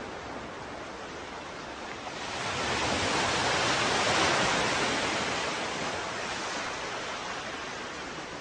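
Ocean waves: a steady wash of surf, with one wave swelling up about two seconds in, breaking loudest around four seconds and washing back down over the next few seconds.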